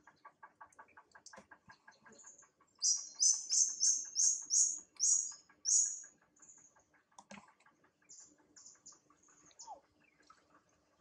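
A bird singing a quick run of about eight loud, high chirping notes partway through, with a few fainter short notes after it. Underneath is a faint steady ticking about six times a second, and a single sharp click comes shortly after the song.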